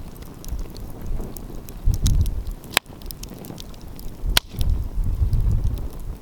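Wood fire crackling with scattered small pops and two sharp snaps about a second and a half apart near the middle, over gusts of low rumble from wind on the microphone.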